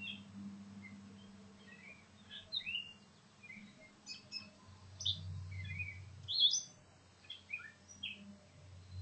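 Wild songbirds chirping and calling, many short high chirps scattered throughout, over a faint steady low hum.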